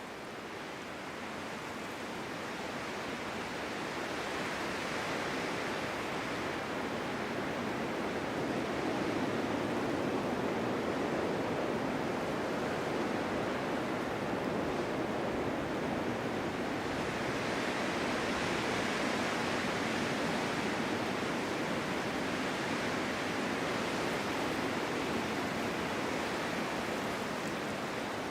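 Snowstorm wind blowing hard and steadily, growing louder over the first few seconds and then swelling and easing in slow gusts.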